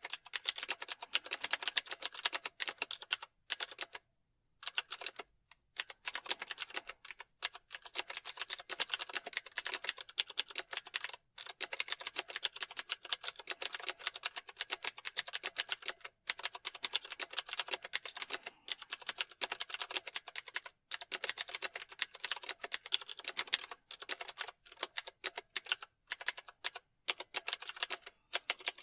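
Rapid, steady typing on a computer keyboard: fast runs of key clicks broken now and then by brief pauses of a fraction of a second.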